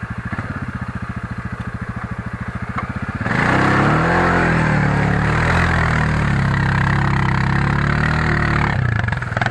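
Quad bike (ATV) engine running at low revs with an even putter, then revved hard about three seconds in and held high with a wavering pitch, dropping back off near the end.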